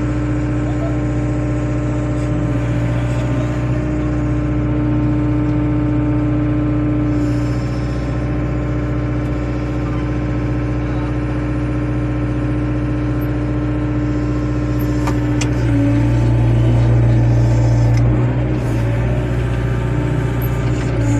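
Excavator diesel engine running steadily. About fifteen seconds in it grows louder and rougher for a few seconds, then settles back.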